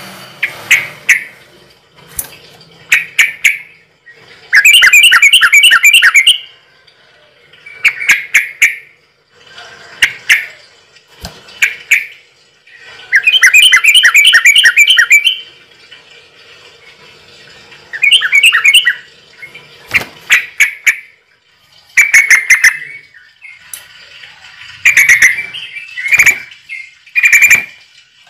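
Bird calls: loud short calls repeated every second or two, with two longer runs of rapid repeated notes lasting about two seconds each.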